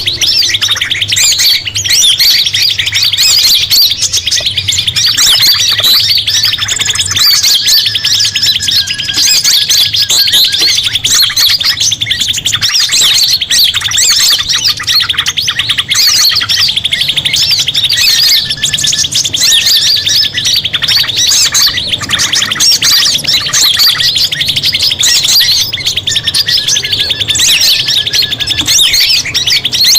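Bird-lure recording: a dense chorus of several small songbirds chirping and trilling without pause over a continuous high buzzing trill, with short, lower whistled notes recurring every few seconds.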